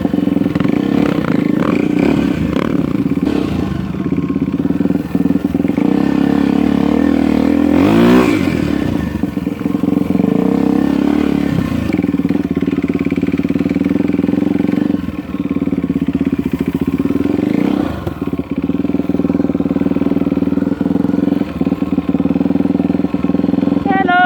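Off-road motorcycle engine running steadily under way. About eight seconds in, a louder swell of engine sound sweeps up and down in pitch, and the engine eases off briefly twice later on.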